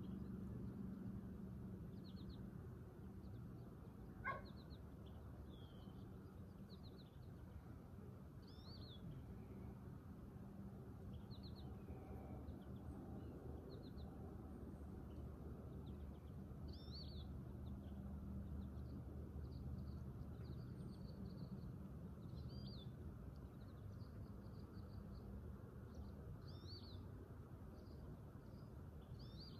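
Small birds chirping on and off: short high chirps and quick trills scattered throughout, over a faint steady low hum. One sharp click about four seconds in stands out above the rest.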